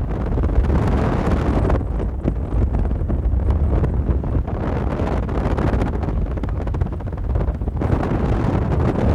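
Strong wind buffeting the microphone: a steady, heavy rumble with gusts that swell about a second in and again near the end.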